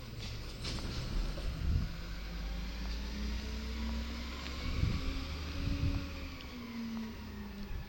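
Garbage truck's diesel engine running, its pitch rising from about three seconds in and falling back near the end, with a few knocks.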